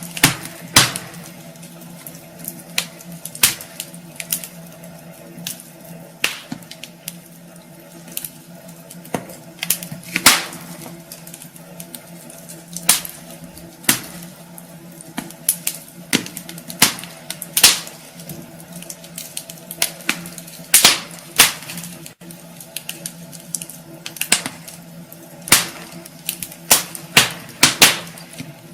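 Wood fire in a fireplace crackling, with irregular sharp pops and snaps coming several a second at times, over a steady low hum.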